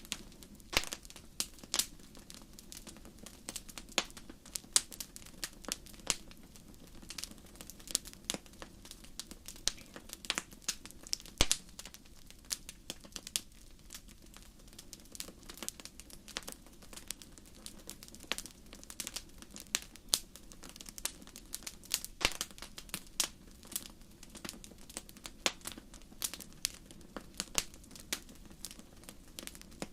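Wood fire crackling, with irregular sharp snaps and pops over a soft steady hiss.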